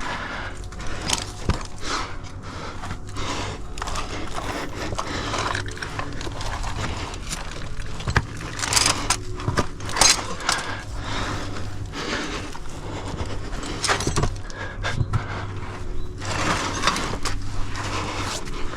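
A climber's body, clothing and shoes scraping and knocking against sandstone while squeezing up a chimney, with climbing gear clinking now and then and hard breaths at times.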